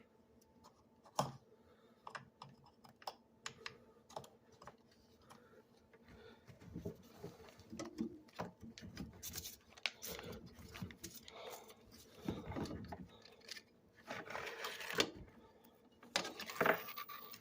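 Irregular small clicks, taps and scraping from hands handling the dishwasher door's hinge parts: the pulley, cord and spring being worked loose. The scraping is loudest near the end.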